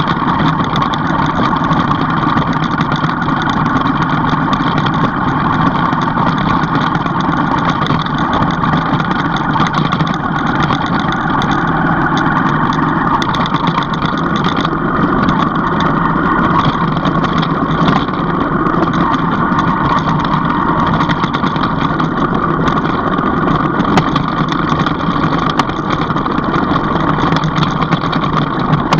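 A vehicle engine running steadily without a break, with many small knocks and rattles throughout.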